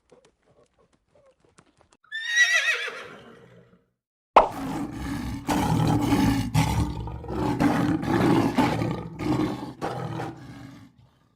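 A horse whinnies once, a falling neigh lasting about two seconds. About four seconds in, a lion starts roaring loudly and keeps on for about six seconds.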